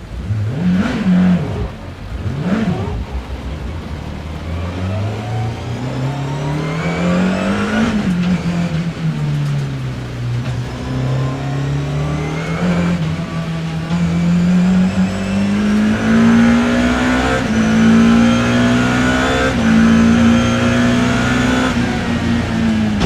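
BMW E30 M3's four-cylinder engine heard from onboard the racing car: two quick blips of revs, then a long climb in revs that drops off about eight seconds in, followed by a long pull up to high, fairly steady revs with small dips near the end.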